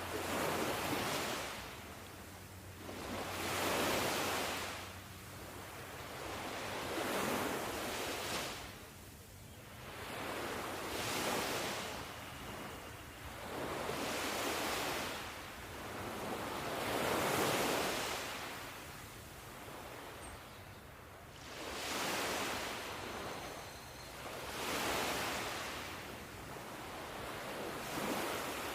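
Ocean surf: waves breaking and washing in, a rushing that swells and fades about every three to four seconds.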